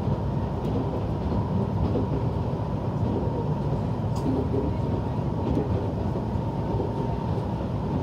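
Akita Nairiku Line diesel railcar running at speed, heard from inside the carriage: a steady low rumble of the engine and of the wheels on the rails, with a faint steady whine above it.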